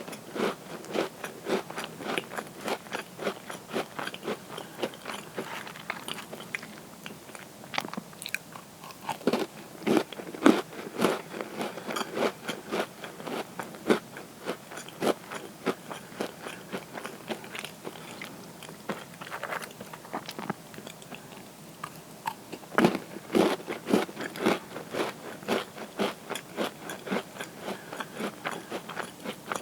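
Close-miked crunchy chewing of butter cookies: rapid dry crunches and crackles, with louder clusters of bites about a third of the way in and again near the three-quarter mark.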